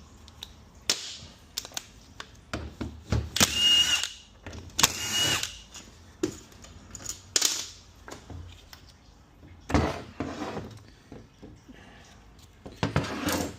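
Cordless drill-driver run in two short bursts about a second apart, with clicks and clunks of metal parts being handled around them.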